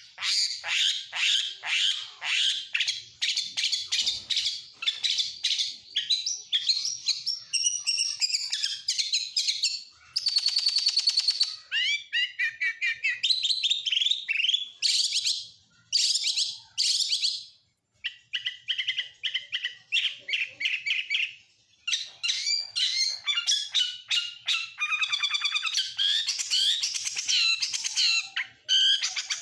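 Oriental magpie-robin (kacer) singing a long, varied song of quick whistles and chirps, mixed with imitated calls of other birds. A dense, rapid trill comes about a third of the way in, and the song breaks off briefly a few times around the middle.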